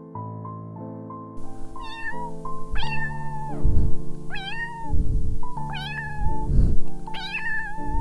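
A cat meowing repeatedly, about five short meows, over gentle piano music. Low thudding bursts come between the meows.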